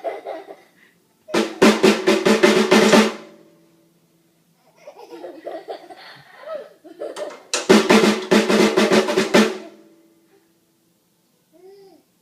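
Two loud bursts of rapid drum-like beating, each lasting about two seconds, roughly six strikes a second, with quieter voice-like sounds between them.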